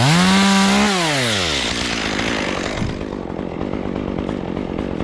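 Two-stroke chainsaw revved up quickly, held at high speed for about a second, then let fall back toward idle, still running afterwards.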